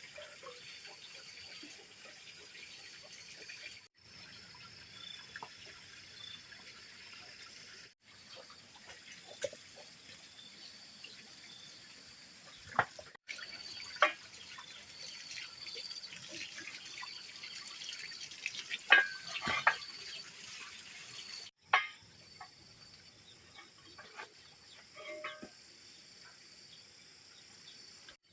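Water running and trickling, with a few sharp knocks and splashes standing out in the middle; the sound breaks off abruptly several times at edits.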